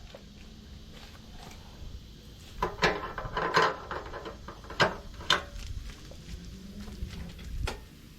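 Scattered knocks and clicks of objects being handled, with a cluster about three seconds in and single knocks later, over a faint low hum.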